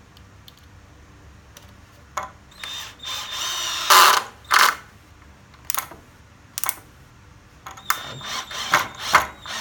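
DeWALT DCD700 cordless drill-driver driving a screw in screwdriver mode: the motor whines for about a second and ends in a loud burst. Then come separate sharp clicks and, near the end, a quick run of clicks and short whirs as the clutch, set to 10, slips.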